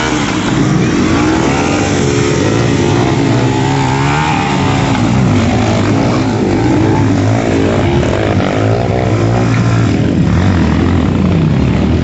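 Several motocross dirt bike engines running and revving at once, their pitches rising and falling.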